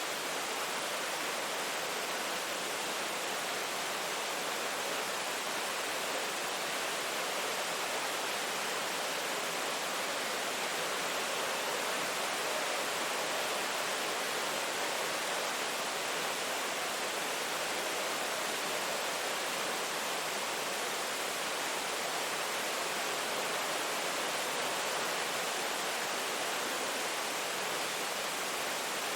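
Steady rainfall, an even wash of noise with no separate drops or thunder standing out.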